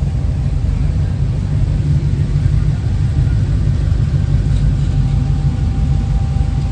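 Vehicle engine running at idle, a loud, steady low rumble.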